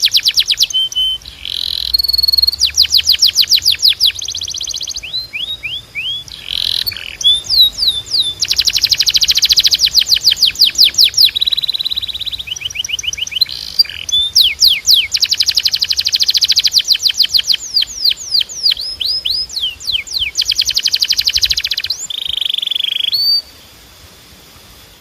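Timbrado canary singing a long song of rapid rolled trills and fast repeated notes, broken by short held whistled notes. The song stops near the end.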